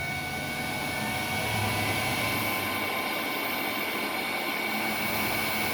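Combustion blower (draft inducer) of a high-efficiency natural gas water heater running steadily, a constant rush of air with a faint high tone, as the heater purges before ignition.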